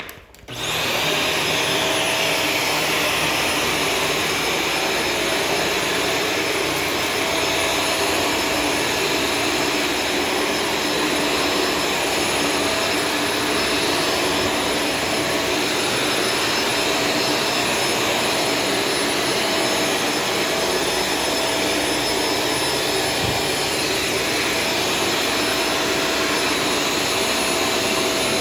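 Shark Stratos vacuum cleaner switched on, its motor spinning up within the first second, then running with a steady whine and airflow rush.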